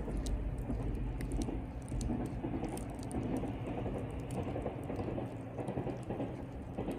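Campfire wood crackling and popping steadily in a fire pit, dense small snaps over a low rumble.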